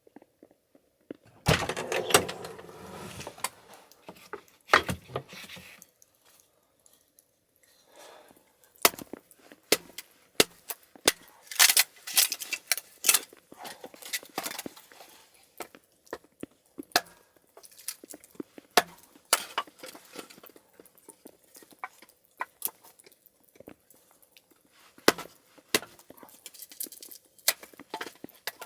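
Dry firewood snapping and cracking: irregular sharp cracks with a denser rustling, crackling stretch about one and a half seconds in.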